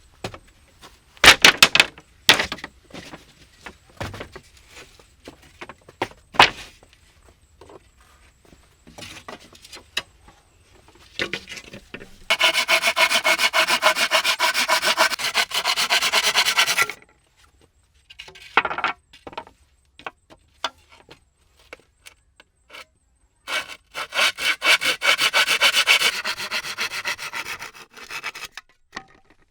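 Hand saw cutting through wood in two runs of quick, even strokes, one of about five seconds and a shorter one later, with scattered wooden knocks and handling sounds before them.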